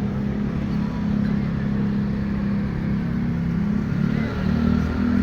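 Street traffic, with a nearby motor vehicle engine running steadily; its pitch shifts about four seconds in.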